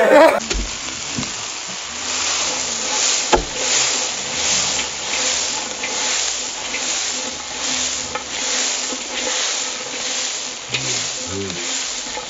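Stir-fry sizzling hard in a wok over a portable gas burner as the food is tossed. The sizzle surges about twice a second, and there is one sharp knock about three seconds in.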